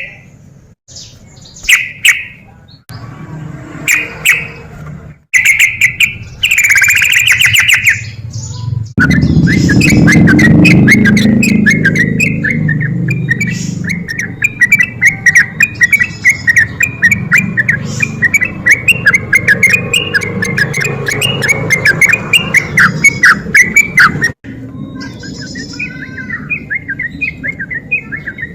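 Yellow-vented bulbul (trucuk) singing loud, energetic phrases. About nine seconds in, the song turns into a long rapid chattering run of notes, which breaks off sharply near the end before shorter phrases resume.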